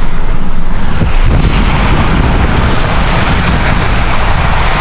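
Steady road noise from a Ram 1500 pickup driving on wet, slushy roads: a low rumble under a loud rushing hiss of tyres and wind.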